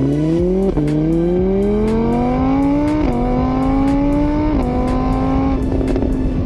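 A car engine accelerating hard through the gears: its pitch climbs, drops sharply at each of three gear changes and climbs again, then holds steady near the end.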